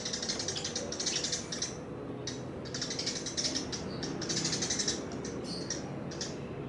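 Small birds chirping in a string of rapid, high-pitched bursts, each up to about a second long, with short gaps between them.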